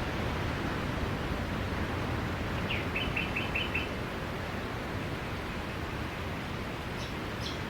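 Steady wash of ocean waves on a beach, with a bird calling a quick run of about six short chirps about three seconds in and a couple of brief high chirps near the end.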